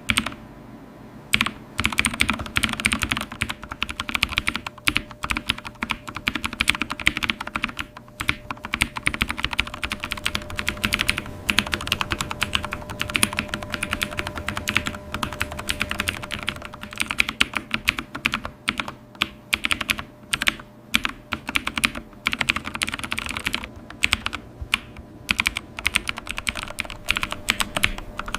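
Fast, continuous typing on a computer keyboard: dense, irregular key clicks, with short pauses about half a second in and now and then later on.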